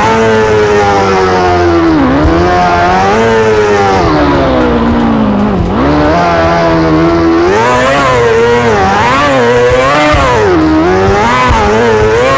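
Motorcycle engine revving, its pitch rising and falling over and over, dropping low about two seconds in and again near the middle, then swinging up and down faster in the second half.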